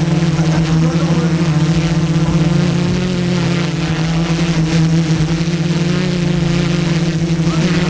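An engine running steadily at an even speed, a loud low drone that does not change.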